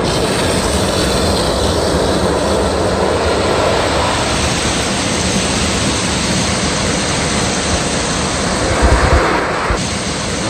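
Automatic tunnel car wash heard from inside the car: a loud, steady rushing noise of the wash machinery working on the car, which changes character near the end.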